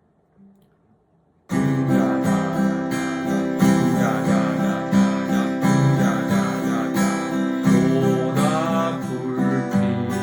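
Acoustic guitar strummed in a three-four waltz rhythm, a bass note followed by chord strokes, starting about a second and a half in after a brief silence.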